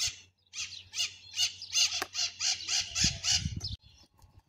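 A bird squawking over and over, a rapid run of harsh calls about three a second that stops a little before the end.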